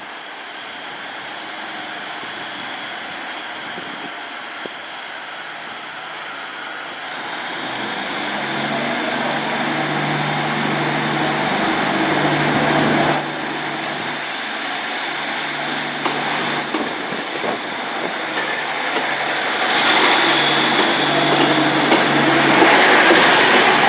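Diesel multiple unit of a Class 150 and a Class 153 running its engines under power as it pulls away from the platform, growing steadily louder.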